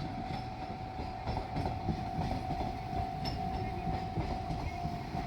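JR Shikoku diesel train rolling over the rails with wheel clatter and a low rumble, while a level-crossing alarm rings a steady high tone.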